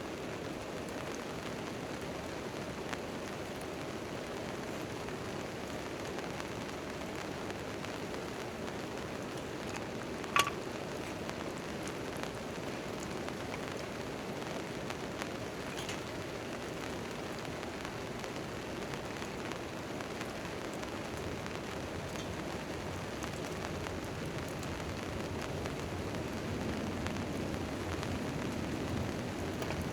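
Steady rain drumming on a tent tarp, with a campfire burning under it. About ten seconds in, one sharp loud pop.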